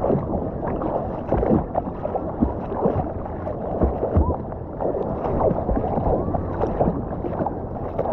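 Seawater sloshing and splashing right against a handheld action camera held by someone floating in the ocean, an uneven run of small splashes and gurgles.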